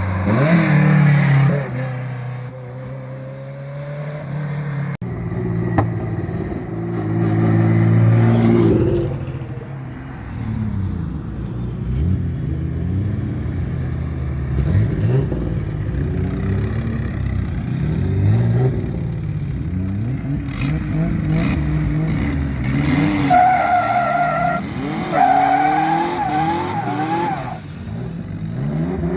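Car engines revving hard, rising and falling again and again, with tires squealing near the end.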